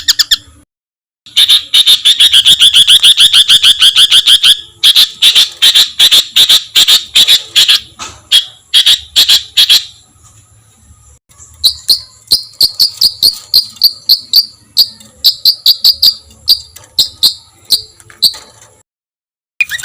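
A songbird giving harsh, rapid-fire chattering calls ('tembakan kasar'), the notes coming about eight a second in the first long run and more spaced out later. There are short breaks between runs, including a silence near the end.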